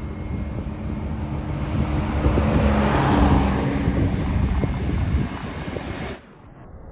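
Jet airliner engines passing close: a loud roar with a steady low engine hum that swells to a peak about three seconds in, eases off, and cuts off suddenly about six seconds in.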